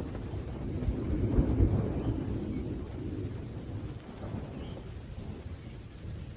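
Thunderstorm: a low roll of thunder swells to its loudest about a second and a half in and slowly dies away, over steady falling rain.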